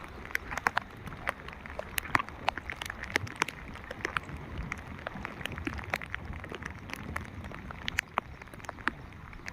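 Rain falling, with many irregular sharp drop hits close by over a steady hiss.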